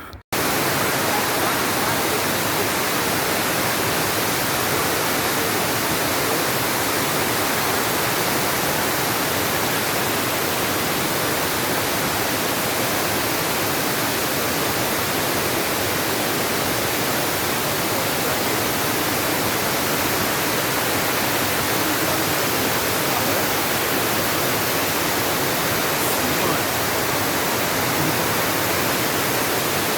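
Steady, even rushing of close water, starting suddenly about a moment in and holding unchanged throughout.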